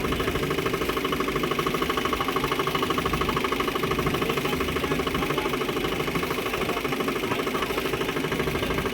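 Motorboat engine running steadily with an even, rapid pulse.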